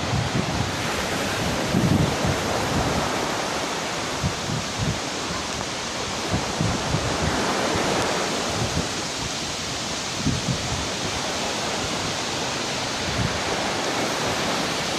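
Steady rush of a waterfall, with gusts of wind knocking on the microphone now and then.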